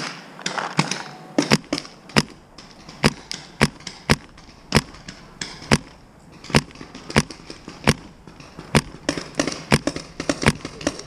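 Paintball markers firing: sharp pops at an irregular pace, two or three a second, some louder and nearer than others.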